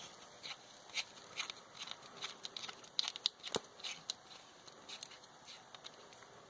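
Irregular light clicks and taps of small fuel pump parts being handled and fitted together by hand while reassembling a Holley fuel pump, with a brief cluster of sharper clicks about halfway through.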